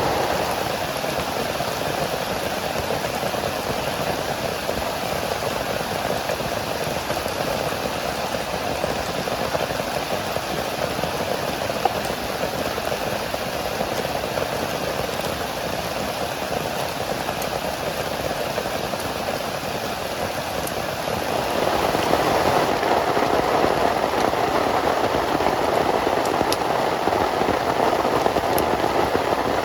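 Heavy rain falling steadily, growing louder about two-thirds of the way through.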